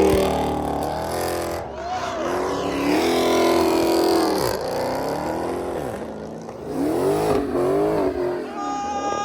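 Car engine revving hard, its pitch climbing and dropping over and over, with a higher whine near the end that falls away.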